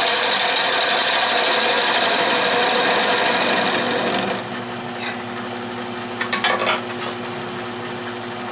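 A turning tool cutting into spinning oak on a Nova 16/24 wood lathe, a loud rough shaving and scraping that stops about four seconds in. The lathe keeps running with a steady hum, with a couple of brief light cuts a little later.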